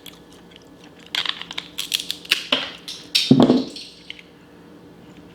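Blue crab shell being cracked and broken apart, a run of sharp cracks and crunches about a second in, with the loudest crack a little past the middle.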